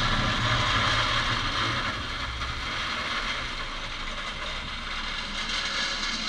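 Heavy machinery running with a steady mechanical rattle and grind; a low engine hum fades out about two seconds in.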